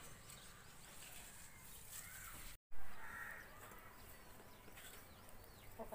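Quiet outdoor ambience with birds chirping and calling. The sound drops out for a moment nearly three seconds in, and a short, louder noisy sound comes right after it.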